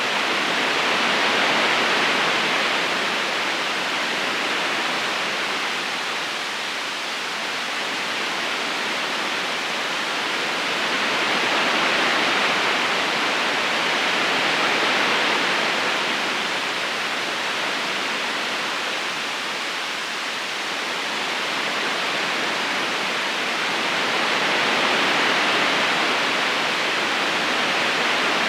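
Flowing river water, a steady rushing hiss that slowly swells and eases every ten seconds or so.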